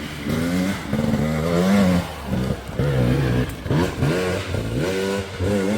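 Dirt bike engine revving up and down in repeated quick surges as the throttle is worked on a hill climb.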